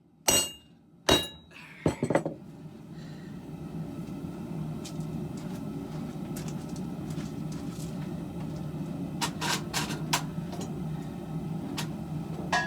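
Two hammer blows on steel at the anvil, each ringing with a clear metallic tone, in the first two seconds. After that the propane forge burner runs with a steady low rush, with a few light clinks of metal near the end.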